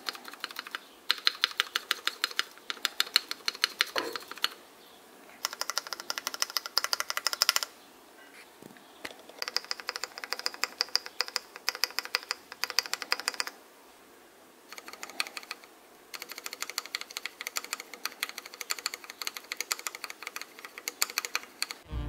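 Typing on a mechanical keyboard: fast runs of key clicks in bursts of two to three seconds, with short pauses between.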